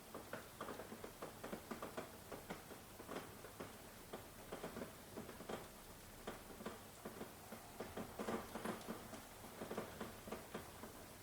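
Rain falling, with many irregular drops pattering and ticking against a nearby surface over a faint steady hiss.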